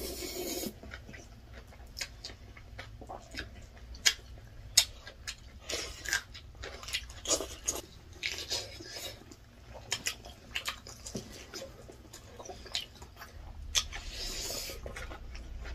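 Two people eating close to the microphone: chewing and biting into rice and spicy chicken drumsticks eaten by hand, with many scattered sharp clicks and wet mouth noises.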